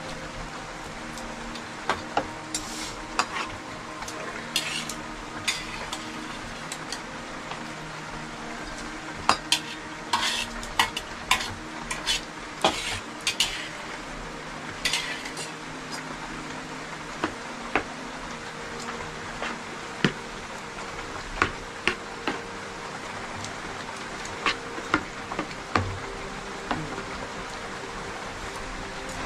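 Irregular clinks, clatters and scrapes of metal utensils against pots and dishes, over a steady hiss.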